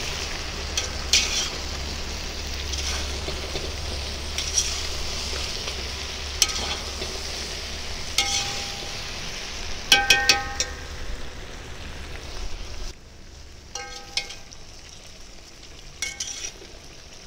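Potatoes, sausages and vegetables sizzling as they fry in a cast-iron kazan, with a metal spatula scraping and clinking against the pot as they are stirred. The sizzle drops to a quieter level about two-thirds of the way through, while the clinks go on.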